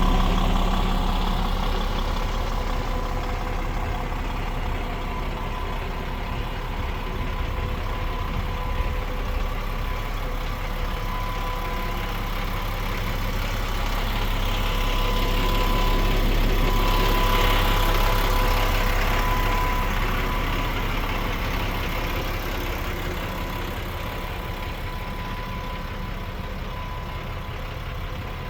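DAF XG 530's 12.9-litre PACCAR MX-13 six-cylinder diesel idling steadily, growing louder for a few seconds about midway before settling back.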